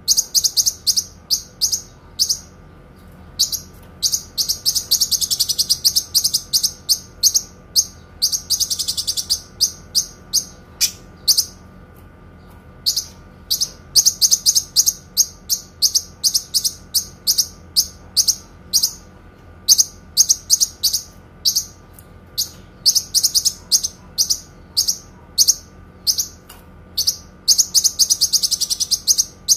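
Kinoi songbird singing: rapid series of sharp, high chirps broken by several long, fast trills. Under it runs a faint steady hum.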